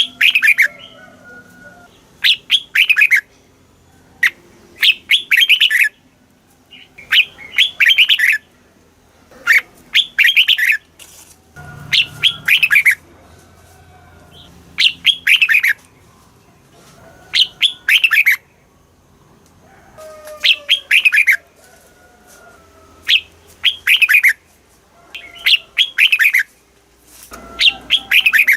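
Red-whiskered bulbul singing: short, bright phrases of a few quick notes, repeated every two to three seconds.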